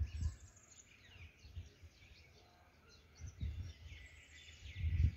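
Small birds chirping and twittering in quick, high trills. A few low, muffled bumps come near the start, about three and a half seconds in, and near the end.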